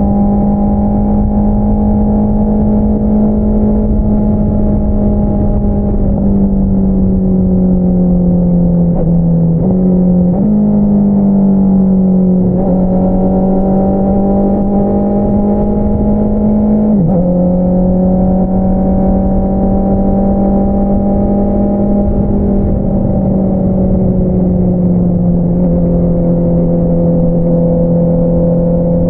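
A 2022 Honda CBR650R's inline-four engine running through an Akrapovič single-outlet exhaust while being ridden. The engine note holds mostly steady, with several abrupt dips and jumps in pitch around the middle.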